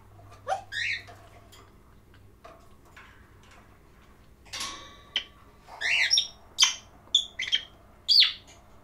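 Pet parrot calling: a sliding whistle near the start, then a quick run of about seven short squawks and whistles with fast up-and-down pitch sweeps, ending on a louder sliding whistle.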